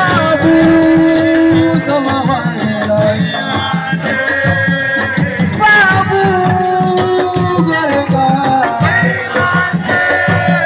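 Live assiko band music: a voice sings long, gliding lines over dense, fast drum percussion.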